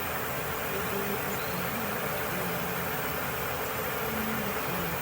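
Car engine idling steadily: an even running noise with no distinct knocks.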